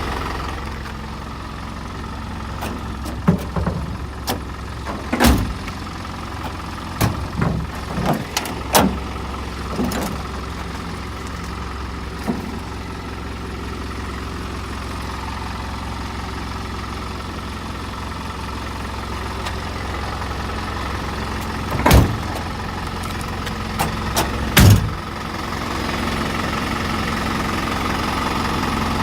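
A used truck's engine idling steadily, with a string of sharp knocks and clicks in the first third and two loud bangs, one about two-thirds of the way in and one shortly after.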